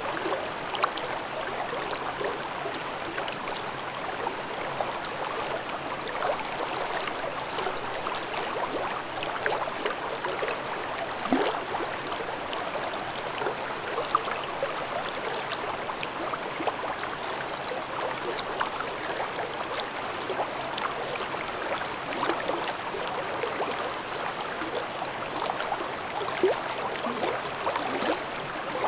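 A babbling forest stream: water running over rocks, with a steady rush dotted with many small gurgles and splashes.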